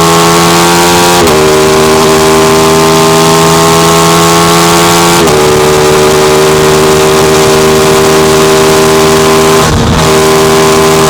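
Aprilia RS660 parallel-twin engine accelerating hard in gear at highway speed. Its pitch climbs and then drops sharply at two upshifts, about a second in and about five seconds in, then holds nearly steady with a brief dip near the end, over a constant rush of wind noise.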